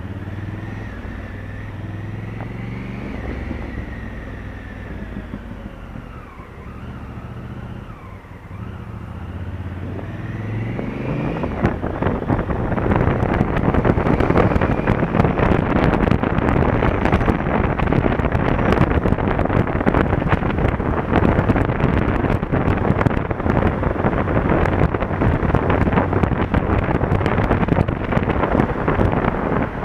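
Honda Africa Twin CRF1000L's parallel-twin engine pulling, its pitch rising, dropping back and rising again as the bike accelerates. About twelve seconds in, loud wind buffeting on the camera microphone takes over as speed builds.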